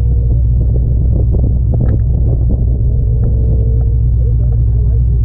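Car engine running with a steady, loud low rumble that holds one pitch, with a few light clicks and knocks over it.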